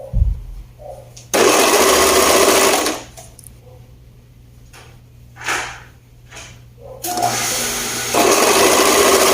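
Overlock sewing machine (serger) stitching a seam in two runs: a short burst of about a second and a half, then a pause, then a second run that starts slowly and picks up to full speed about a second later. A low thump comes right at the start, with light fabric-handling rustles in the pause.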